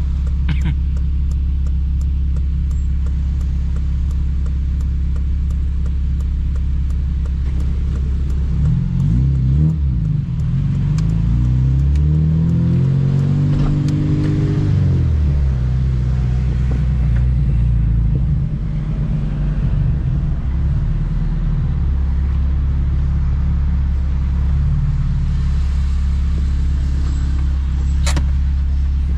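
2007 Honda Civic Si's 2.0-litre four-cylinder engine running steadily under way, its note rising in one pull about a third of the way in and falling back a few seconds later, then settling to a steady drone again.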